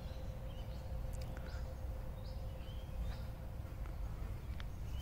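Birds chirping in short, scattered calls over a low steady rumble, with a faint steady hum underneath.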